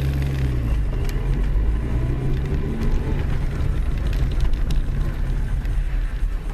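A car driving: a steady low engine and road rumble, with a couple of faint clicks.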